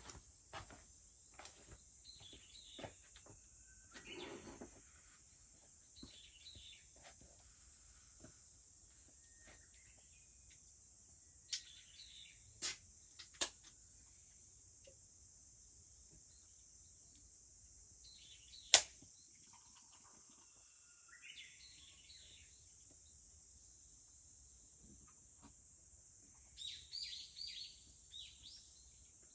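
Steady high drone of cicadas with scattered bird calls. A few sharp snaps of burning wood from the fire come around 12 to 13 seconds in, and the loudest one about 19 seconds in.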